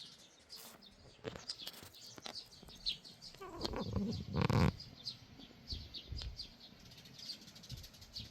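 Small birds chirping over and over in short, high notes, with one louder, lower sound of about a second, about four seconds in.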